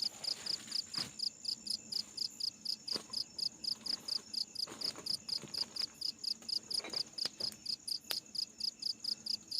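Crickets chirping in a fast, even pulse, about four to five chirps a second, over a steady high insect whine. A few faint knocks are heard along the way.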